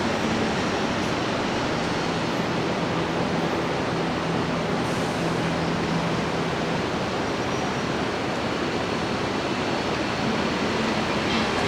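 Steady rushing roar of an Embraer E190 airliner's turbofan engines heard across the airfield, with a faint low hum in the first half.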